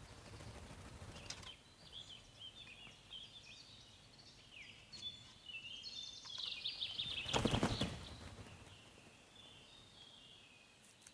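Blue tits calling, a fast patter of short, high chirps that comes and goes, with a brief rustling burst a little past the middle.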